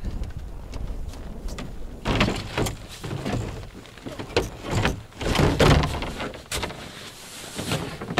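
Irregular knocks, thuds and scraping of gear being handled, starting about two seconds in over a low steady rumble of wind.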